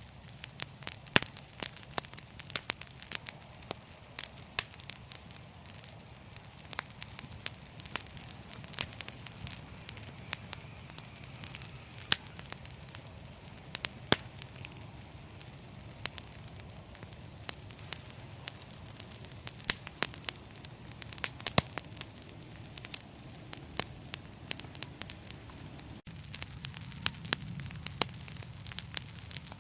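Fireplace fire crackling: a steady low rumble of flames under many sharp, irregular pops and snaps.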